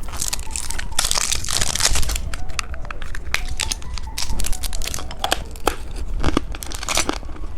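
A plastic candy wrapper being torn open and crinkled up close, a dense run of crackles that is busiest in the first couple of seconds and goes on in smaller rustles after.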